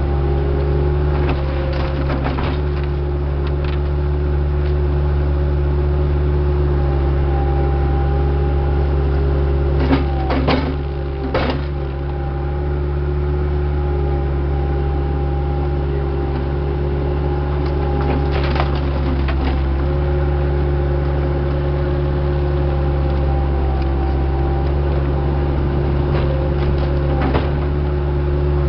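Diesel engine of an earthmoving machine running steadily at constant speed, with a few short knocks about ten seconds in and again a little later.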